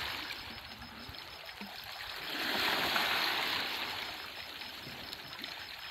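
Small sea waves lapping on the shore, one wave swelling in about two seconds in and washing back out.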